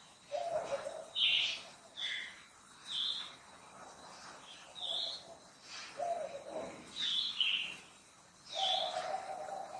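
Birds calling: short low hooting notes alternate with brief high chirps, every second or so, with one longer low note near the end.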